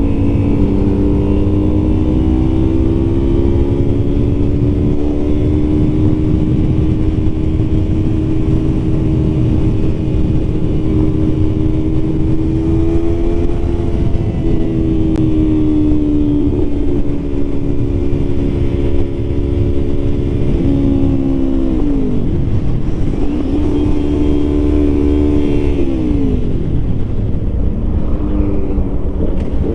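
Yamaha MT-09 three-cylinder motorcycle engine running at a steady cruise, with a low rush of wind noise underneath. In the last third the engine note falls twice, then steadies at a lower pitch.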